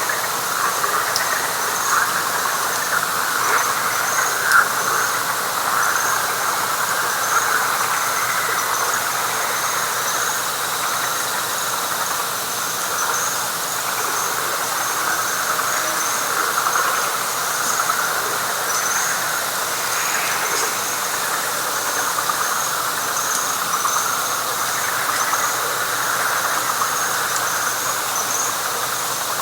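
Dense, continuous night chorus of many calling frogs, with a high, pulsing insect call repeating about once a second over it.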